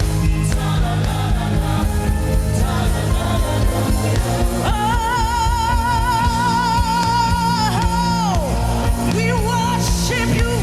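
Gospel worship song with band accompaniment and a solo singer; about halfway in the voice holds one long high note with wide vibrato for nearly four seconds, then slides down, followed by shorter sung phrases.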